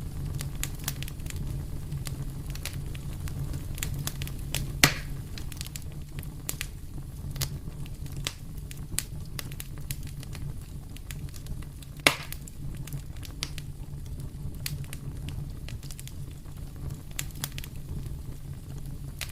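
Wood fire in a fireplace crackling, with frequent small snaps and two loud pops, about five and twelve seconds in, over a low steady rumble.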